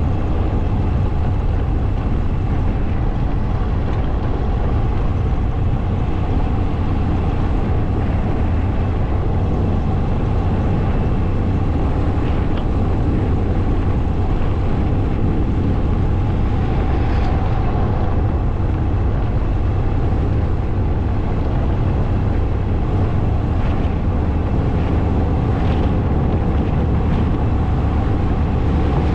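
Motorcycle ridden at a steady speed: a constant loud rush of riding noise with the engine's note running underneath, unchanging throughout.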